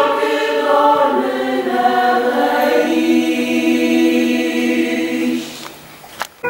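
A choir singing a slow passage of long held chords, fading out about five and a half seconds in, followed by a single short click near the end.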